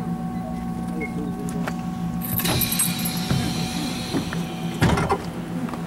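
Taiwan Railways EMU700 commuter train running, heard inside the carriage: a steady electric hum, a burst of hissing about two seconds in lasting about a second, and a few sharp knocks near the end.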